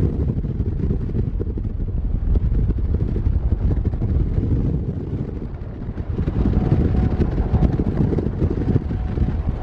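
Road and wind noise of a moving vehicle: a steady low rumble that grows louder from about six seconds in.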